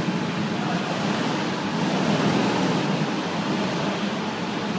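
Steady, even rushing din of an indoor go-kart hall, with a low hum underneath and no single event standing out.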